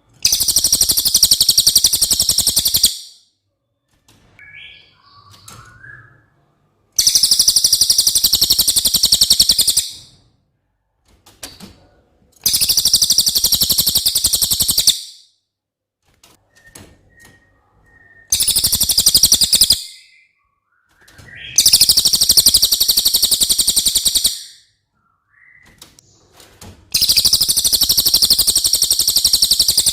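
Cililin bird singing: six long, very high, fast trills of about two to three seconds each, separated by short pauses with a few faint chirps.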